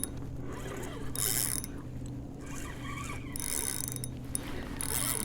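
Fishing reel clicking and whirring in four short bursts, each about half a second, as a small redfish is played on the line. A steady low hum runs underneath.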